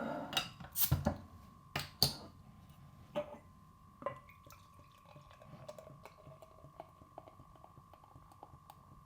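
Kitchen items being handled: several sharp knocks and clinks in the first four seconds, then a faint steady high hum with light ticks.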